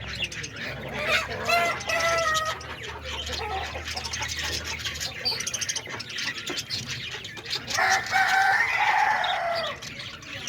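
Rooster crowing: short calls in the first few seconds, then one long crow about eight seconds in that falls in pitch at the end.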